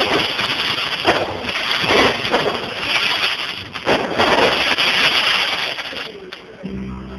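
Fireworks going off in a string of sudden bursts, each trailing into a long hissing crackle, about a second or two apart. The bursts die away near the end, and a steady low tone comes in.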